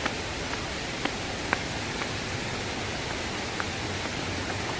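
Steady rush of water from a forest waterfall and its stream, with a few faint clicks in the first couple of seconds.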